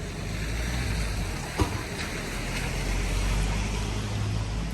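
A car passing on a wet street: a low engine hum and tyre hiss that swell to a peak about three seconds in and then ease off. There is a single sharp tap about a second and a half in.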